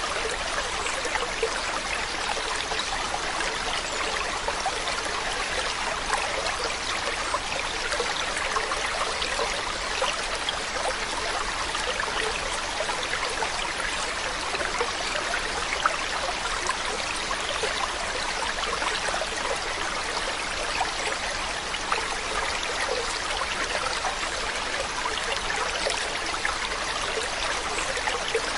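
Running water flowing steadily, a continuous trickling splash with small droplet flecks throughout.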